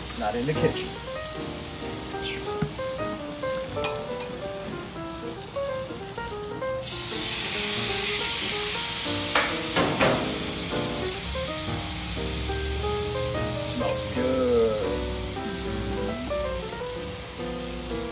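Egg-battered French toast sizzling in a hot cast-iron griddle pan. The sizzle jumps suddenly louder about seven seconds in, as a second batter-soaked slice goes onto the pan.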